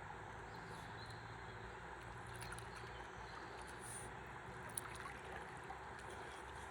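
River water lapping and trickling against a drifting stand-up paddleboard, a steady soft wash, with one small sharp click a little before five seconds in.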